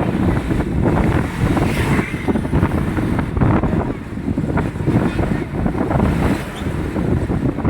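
Wind buffeting the microphone in an uneven, choppy rumble over steady vehicle noise.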